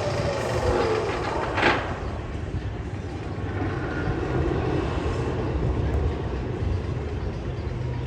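Magnum XL 200 roller coaster train rumbling along its track, with a brief loud burst of noise about one and a half seconds in.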